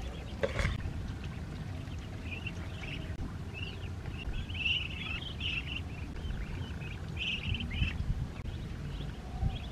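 Birds chirping in short clusters of quick calls, over a steady low rumble.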